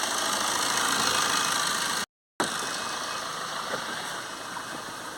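Car engine revved up for a couple of seconds, then running at a lower, steady idle after a brief cut-out in the audio.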